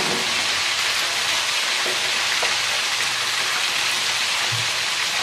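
Green beans and winged beans stir-frying in hot oil, a steady sizzle, with a couple of light clicks a few seconds in.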